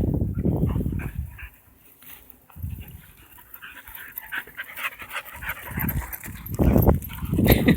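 Dog panting in quick puffs, with bursts of low rumbling noise in the first second or so and again near the end.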